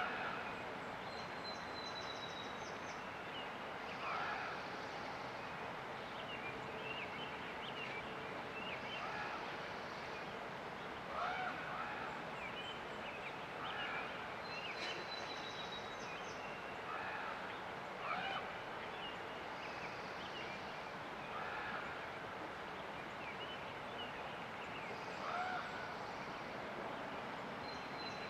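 Small birds chirping, a short call repeating every couple of seconds, with a thin high whistle three times. Under them runs the steady rush of a river.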